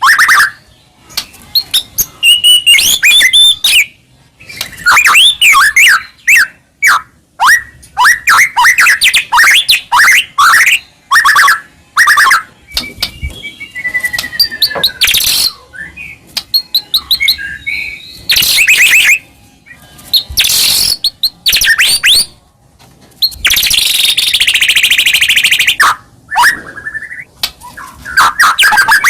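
White-rumped shama singing in full voice: a loud, varied song of quick whistled phrases, fast trills and harsh rasping notes, broken by short pauses.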